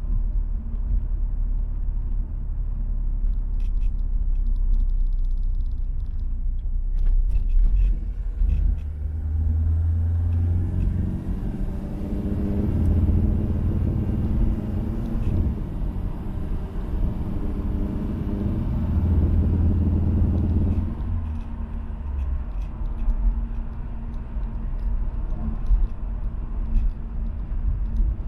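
Peugeot 505 GTD turbo diesel car running on the road with a low rumble. From about ten seconds in, the engine note grows stronger with a faint high whistle for roughly ten seconds, then settles back.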